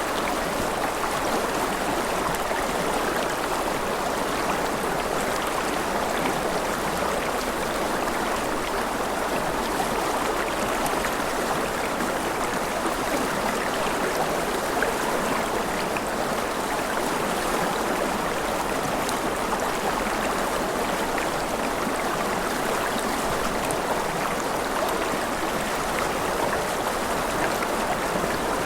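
Steady gentle rain: an even, unbroken hiss of falling water with fine pattering.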